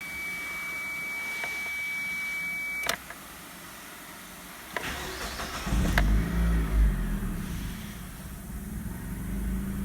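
A steady high electronic tone sounds for about three seconds and stops with a click; about two seconds later a starter cranks briefly and the Mitsubishi Carisma's 1.8 GDI 4G93 direct-injection inline-four catches, flares up and settles into a steady idle.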